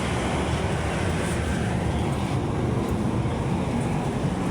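MRT-3 light-rail train running, a steady rumble with no clear breaks.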